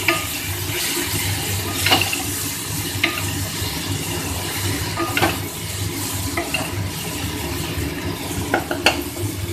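Onion-tomato masala frying and sizzling in oil in a pan while a spatula stirs and scrapes it, with a sharper knock or scrape of the spatula against the pan every second or two. The tomato paste is being fried until its raw taste cooks off.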